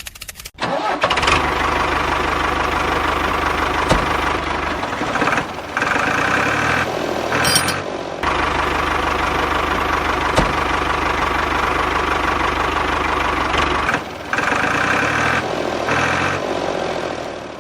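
Motor of a DIY miniature tractor running steadily, starting about half a second in, with brief dips in level three times.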